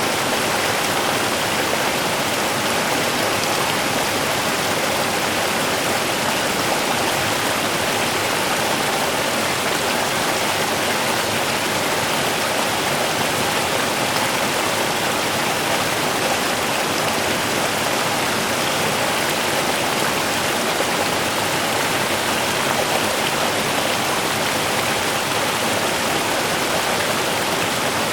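Small river running steadily over rocks: an even, unbroken rushing and burbling of water.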